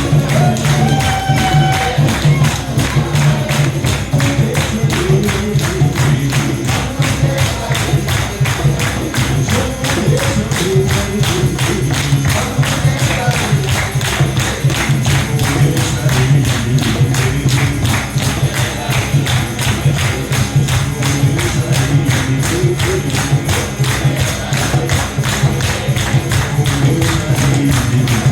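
Kirtan chanting: singing voices over a steady low drone, with fast, even jingling hand percussion throughout.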